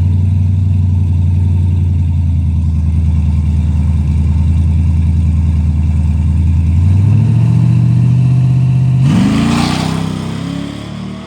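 Drag-racing vehicle's engine idling loudly and steadily, brought up a little about seven seconds in, then revving hard in a fast rising sweep as it launches off the line, fading as it pulls away.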